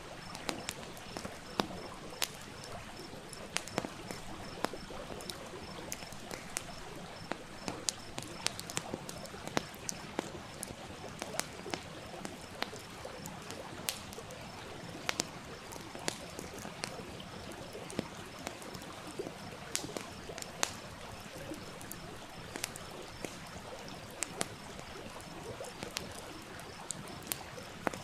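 Wood campfire crackling, with frequent irregular sharp pops, over the steady rush of a small stream.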